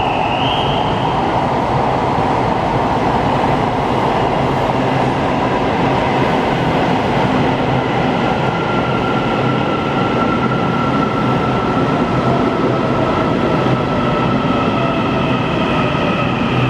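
TRA EMU800 electric multiple unit running into the station platform with steady wheel and running noise. About halfway through, a high steady whine joins in, and a lower tone falls slowly in pitch as the train slows.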